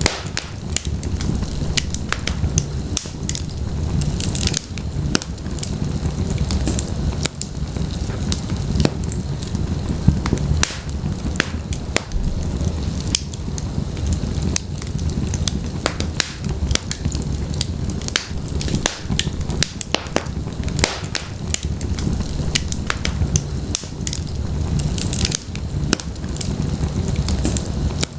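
Wood fire burning in a fireplace: a steady low rumble of the flames with many sharp crackles and pops from the burning logs.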